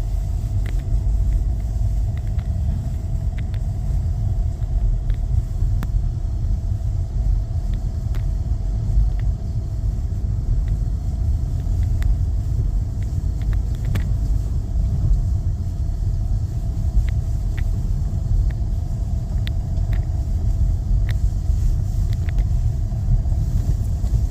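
Vehicle driving slowly, heard from inside the cabin: a steady low rumble with a constant hum and scattered light clicks and ticks.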